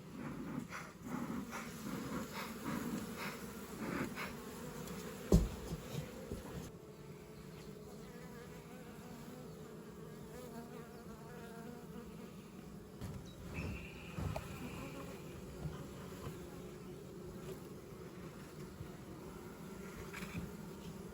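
Swarm of honeybees buzzing steadily around an open hive. Over the first several seconds there are irregular knocks and rustles, with one sharp knock about five seconds in.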